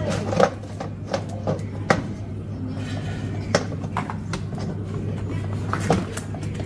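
A few sharp knocks and clicks, four in all and spaced a second or more apart, over a steady low hum.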